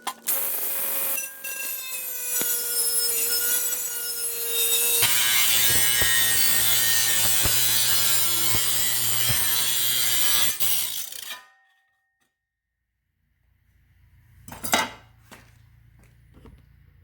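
Aluminum sheet being cut with a power saw: a loud, grating cut with a ringing metallic squeal that runs for about eleven seconds, joined by a steady motor hum partway through, then stops abruptly. A few seconds later there is a short clatter.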